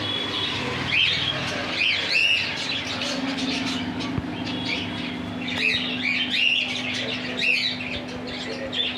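Small birds chirping and squawking in short repeated bursts, with a steady low hum underneath from about three seconds in.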